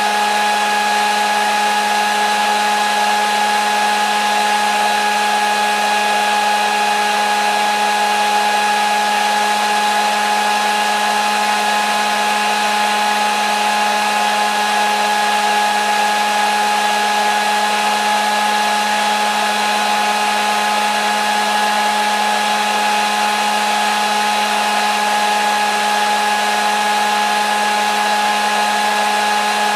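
Hair dryer running steadily: an even rushing hiss of blown air with a constant motor hum and whine, no change in speed, played continuously as white noise for sleep.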